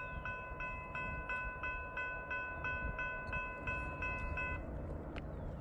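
Railroad grade-crossing warning bell ringing at about three strikes a second, stopping about four and a half seconds in, over a low rumble.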